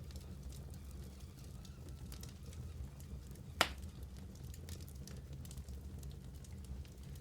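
Wood fire burning in a fireplace: a steady low rumble of flames with scattered small crackles, and one sharp, loud pop about three and a half seconds in.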